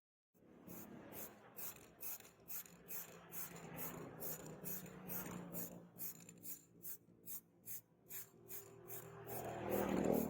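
Knife blade worked against an abrasive by hand in quick back-and-forth strokes, about two to three a second, with a rasping, rubbing sound.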